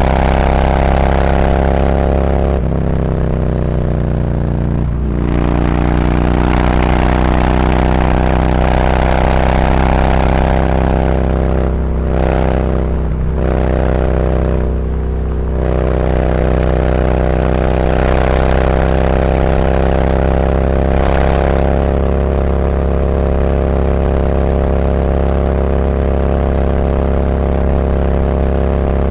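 Harley-Davidson Road Glide's V-twin running through SuperTrapp 4-inch internal-disc slip-on mufflers. The engine note falls a few seconds in, breaks briefly a few times around the middle as the throttle comes off, then holds steady.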